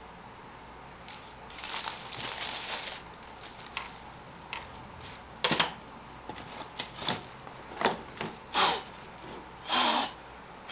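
Hand scrubbing and rubbing on a carburetor part as it is cleaned off. A stretch of steady rubbing is followed by a string of short, sharp scraping strokes, the loudest near the end.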